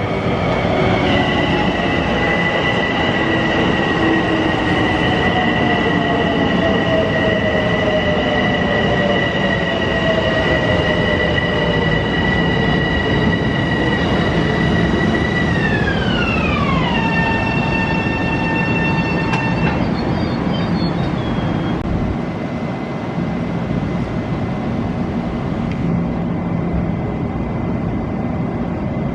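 Long Island Rail Road electric train pulling into the station: the whine of its traction motors slides down in pitch as it slows. A high steady whine holds for about fifteen seconds, drops sharply in pitch and stops about twenty seconds in, with rumbling over the rails throughout.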